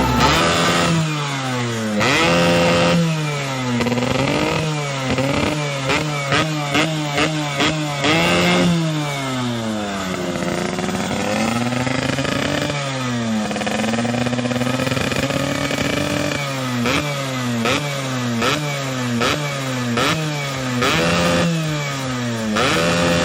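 Vespa scooter engine through a racing exhaust, revved again and again: quick throttle blips that rise and fall in pitch, with one slower, longer rise and fall in the middle.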